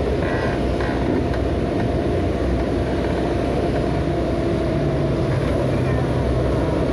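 Diesel engine of heavy earthmoving machinery running steadily under load, a continuous low drone.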